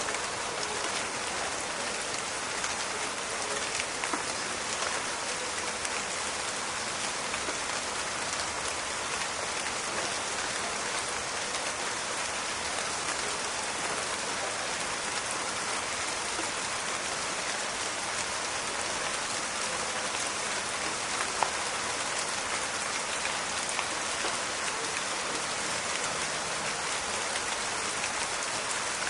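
Steady rain falling in a forest, a dense even hiss with many small crackling drop clicks, and one sharper tick of a drop about three quarters of the way through.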